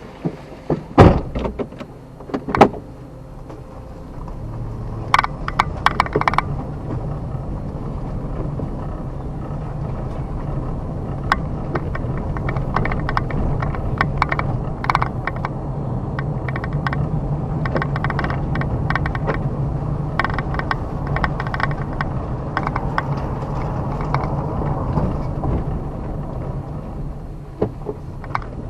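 Two sharp knocks near the start, then a car running steadily as it drives slowly, with scattered clicks and crackles over the engine hum.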